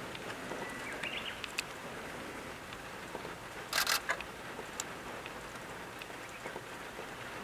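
Heavy rain falling steadily, an even hiss. A little after halfway comes a brief, loud cluster of rapid clicks.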